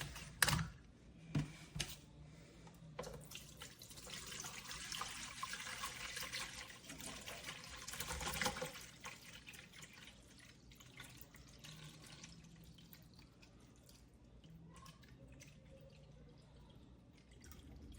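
Distilled water poured from a one-gallon jug into a top-fill humidifier tank: a few knocks from handling the jug, then a steady splashing pour lasting several seconds, easing off into faint trickles and drips.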